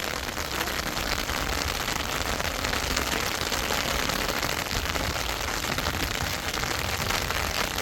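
Heavy rain falling: a steady, dense patter of drops without a break.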